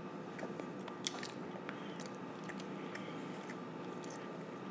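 A child chewing a mouthful of food with her mouth closed: faint, scattered wet mouth clicks over a steady low hum.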